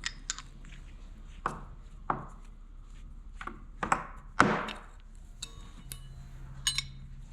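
A wrench and a wideband O2 sensor in its exhaust bung block being worked as the sensor is snugged down: irregular metal clinks and knocks, the loudest about four and a half seconds in.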